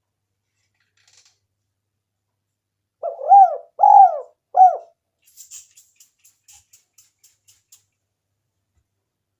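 Spotted dove (tekukur) cooing: three arched coos in quick succession about three seconds in. A run of faint, quick ticks follows.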